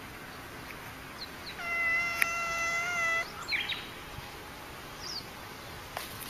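A cat giving one long, steady-pitched meow about a second and a half in, followed by a few short high chirps.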